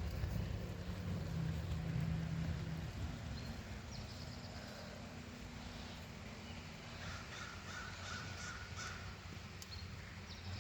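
A crow cawing, a run of harsh calls in the second half, over a low steady hum.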